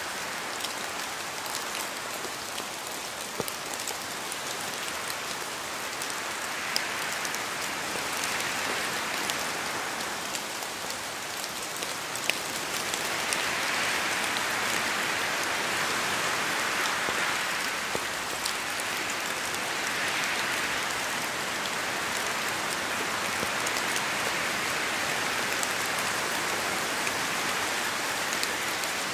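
Steady rain falling, an even hiss with scattered sharper drop ticks, swelling slightly heavier about halfway through.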